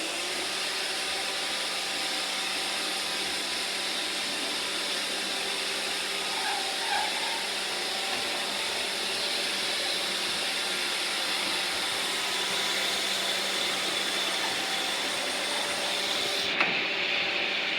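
Several Roomba robot vacuums running at once: a steady whir and hiss of their vacuum motors and brushes. Near the end the high hiss drops away abruptly.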